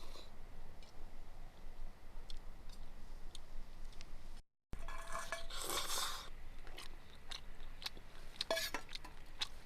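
A person eating close to the microphone: chewing and crunching, with scattered small clicks. The sound drops out completely for a moment about halfway through, then a louder rustling crunch follows.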